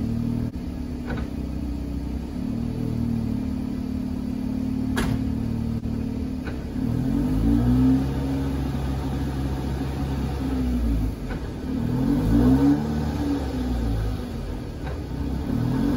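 BEAMS-swapped Toyota AE86's engine running with the car up on a lift: steady at first, with a few sharp clicks, then revving up and dropping back several times as it is run through the gears with the rear wheels spinning free, a check that the new clutch engages properly.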